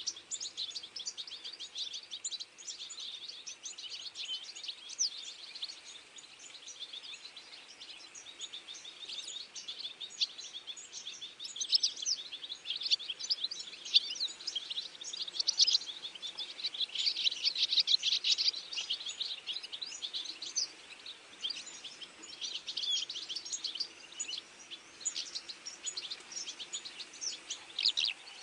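A dense chorus of many small birds chirping and singing at once, with quick high chirps overlapping continuously and busiest around the middle.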